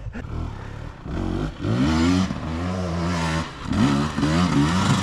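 Enduro dirt bike engine revving up and down several times under load, the pitch surging and dropping with bursts of throttle on rough, technical terrain. Light clatter runs underneath.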